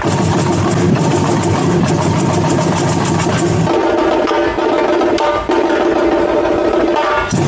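Samba school band playing: dense, driving percussion with pitched notes over it. The deepest drum part drops out about halfway through and comes back just before the end.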